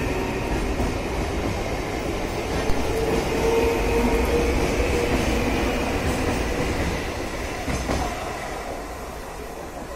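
Mumbai suburban local electric train running on the tracks: a steady rumble with held whining tones from the wheels and motors, easing off over the last few seconds.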